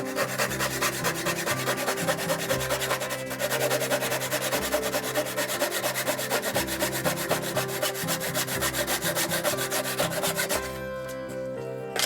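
Rapid, even rubbing strokes of a hand tool on wood, stopping about ten and a half seconds in, over background music.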